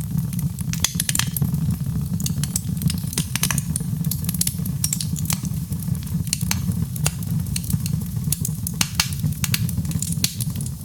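Wood fire burning, with many irregular sharp crackles and pops over a steady low rumble of the flames.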